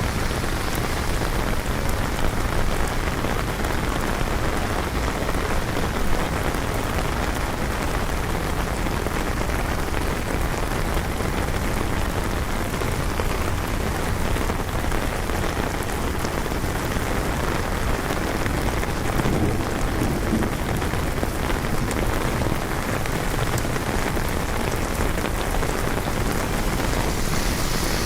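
Steady rain falling on city surfaces, an even hiss with little change.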